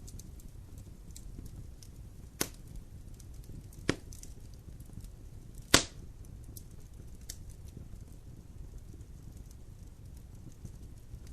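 Wood fire burning in a fireplace, with faint scattered crackles and three sharp pops in the first half, the third the loudest.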